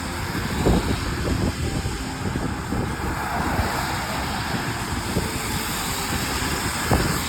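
Steady road and wind noise of a car being driven, with two short thumps, one about a second in and one near the end.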